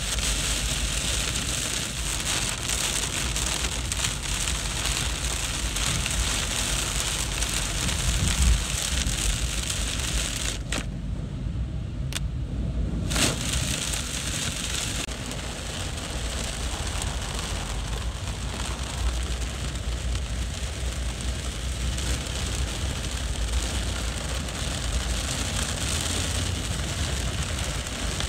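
Heavy rain falling in a steady hiss, mixed with a low rumble from traffic on the wet road. The hiss drops away for a couple of seconds about eleven seconds in, then comes back.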